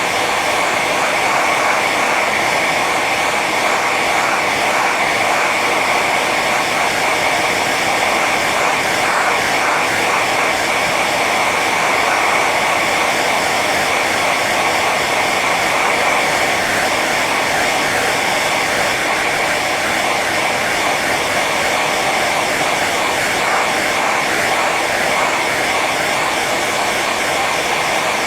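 Hair dryer running steadily on its high setting: an even, constant rush of blown air with a faint high whine on top.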